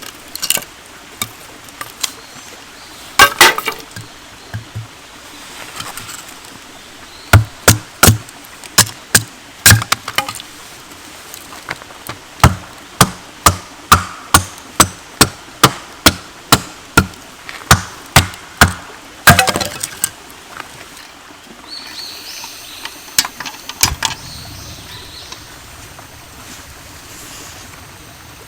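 Firewood being split by hand: a run of sharp wooden knocks, about one and a half a second for some twelve seconds, with a few single strikes before it. Near the end the knocks stop, leaving a soft hiss.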